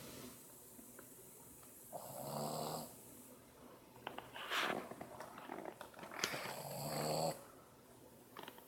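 A 7-month-old Boston Terrier, a flat-faced breed, snoring in its sleep: two long buzzing snores about four seconds apart, with a breathy rasp between them.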